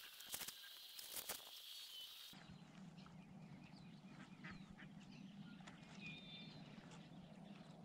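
Near silence with faint, scattered bird calls and a few soft clicks in the first couple of seconds.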